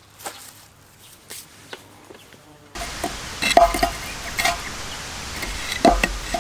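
A few faint clicks. About three seconds in, a steady sizzle of food frying in a pan starts abruptly, with sharp clinks and scrapes of a utensil against the pan.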